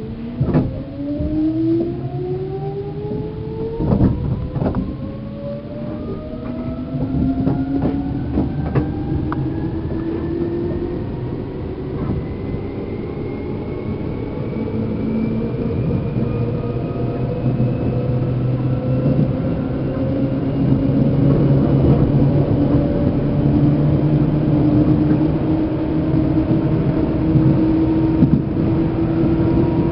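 Traction motors of a Seibu New 2000 series electric train, heard inside the motor car, whining upward in pitch as the train accelerates, then levelling off at speed. Wheel rumble underneath, with a few sharp knocks in the first seconds.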